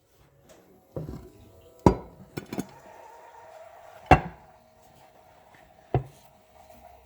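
Sharp clanks and knocks of a metal baking pan and a plate handled together, about five in all, the loudest about two and four seconds in, as the hot monkey bread is turned out of the pan onto the plate.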